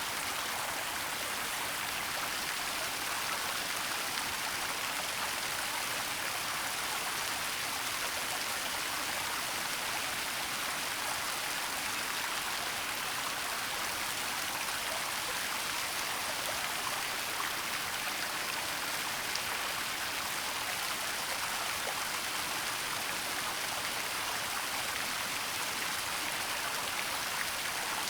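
Waterfall splashing and rushing steadily, an even hiss of falling water with no change in level.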